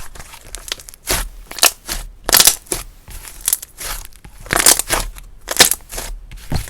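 Hands squeezing and pressing slime, a series of short noisy squishing bursts roughly once a second.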